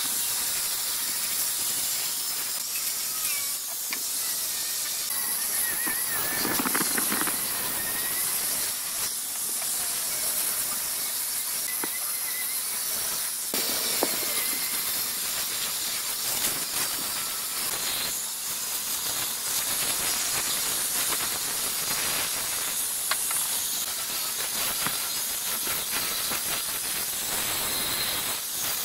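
A steady high hiss, like air or spray from a workshop tool, with a few faint thin tones and scattered light clicks.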